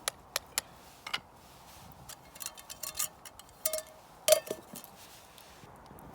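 Cookware and utensils being handled: a series of sharp clinks and taps, with a brief ringing clink about four seconds in that is the loudest.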